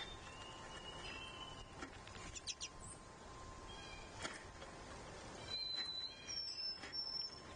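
Wild birds calling outdoors: scattered short high chirps and whistles, a couple of quick upward sweeps, and a longer high whistle near the end, with a few faint clicks.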